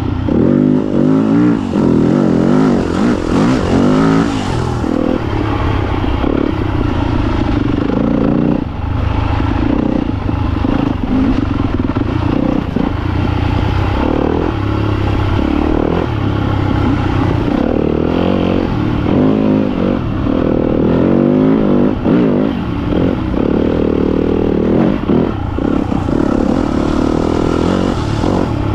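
Yamaha YZ250FX dirt bike's four-stroke single-cylinder engine revving up and down over and over as the bike is ridden along a trail, heard close from the rider's position.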